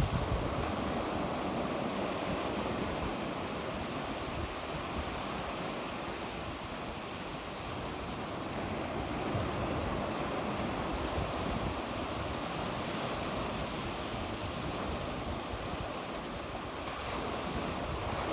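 Sea waves washing onto the shore, a steady wash that slowly swells and eases, with some wind on the microphone.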